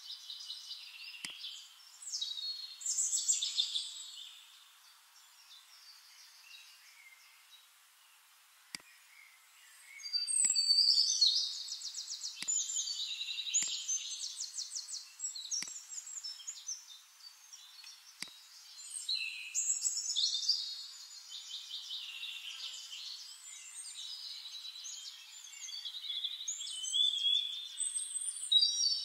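Several birds chirping and trilling in overlapping bursts, high and thin with no low end, louder in a few stretches and fading to faint between them.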